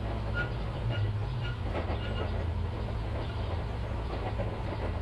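Steady low machinery rumble with a hum, with several short high squeaks in the first couple of seconds.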